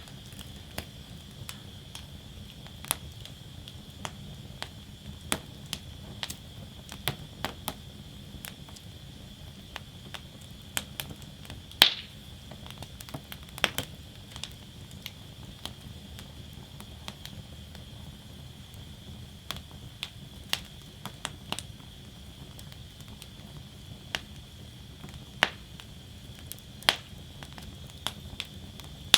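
Wood fire burning in a fire basket, crackling with irregular sharp pops, the loudest about twelve seconds in, over a steady rushing hiss.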